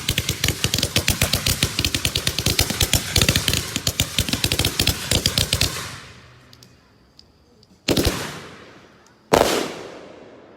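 Consumer fireworks zipper cake firing a rapid machine-gun-like string of shots for about six seconds. Two single heavy breaks follow about a second and a half apart, each with a long echoing tail, hitting hard.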